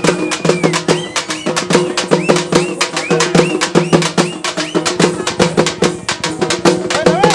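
Lambadi folk dance music: fast, even percussion strikes, several a second, over a steady held note.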